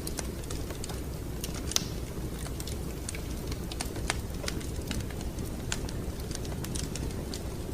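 Fire in a fireplace crackling: irregular sharp pops and snaps, one louder pop about two seconds in, over a steady low rumble.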